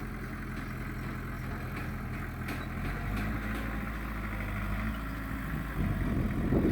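Diesel engine of heavy earthmoving machinery running steadily, its note shifting about three seconds in, with a few faint sharp clicks. A louder rough rumble builds near the end.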